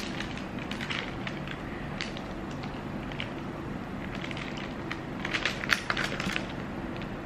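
A child chewing a candied strawberry (tanghulu) with her mouth closed: scattered crunches of the sugar coating, with a cluster of louder crunches about five seconds in.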